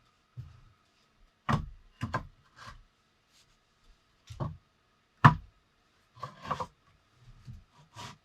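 Irregular wooden knocks and clunks, about ten in all, as of wood or tools being handled and set down, with the loudest knock a little past five seconds in.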